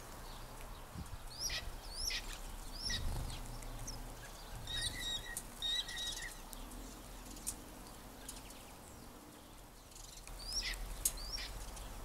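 Small backyard birds calling: a few quick high calls sliding downward early on, a run of short repeated two-pitched notes in the middle, and two more downward-sliding calls near the end, over a faint low rumble.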